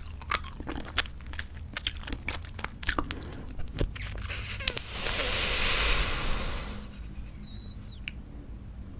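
Close-miked bubblegum chewing with quick wet clicks and smacks. About halfway through comes a long breathy blow lasting some two seconds as a bubble is blown, followed by a few faint squeaks and a single click.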